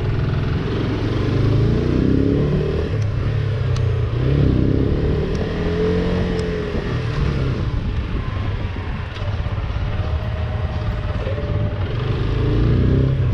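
AKT CR4 162's single-cylinder engine running under way, the revs rising and falling as the motorcycle is ridden through a street.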